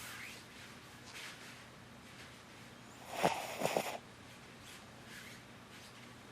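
Dog snoring softly in its sleep: faint breaths about once a second, with a louder pair of snores, each falling in pitch, a little past three seconds in.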